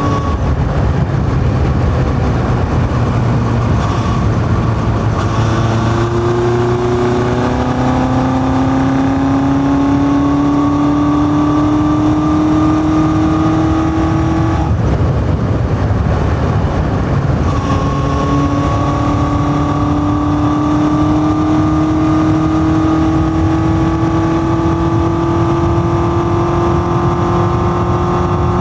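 Yamaha XJ550's air-cooled inline-four running through an open 4-into-1 exhaust with open intake filters while riding. The engine pulls with its pitch climbing, drops briefly at a gear change about halfway through, then climbs slowly again under throttle.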